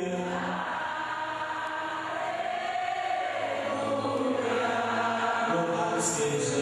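Many voices singing a slow worship hymn together in Portuguese, with long held notes.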